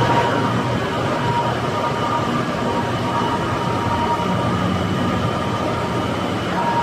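Glass-processing machinery running steadily: a continuous rumble with a faint constant whine and no breaks.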